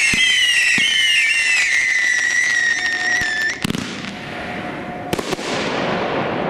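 Consumer fireworks cake firing: several whistles shriek together, wavering in pitch over faint pops, until about three and a half seconds in. Then a sharp bang is followed by a hiss that fades, and a second bang comes about a second and a half later.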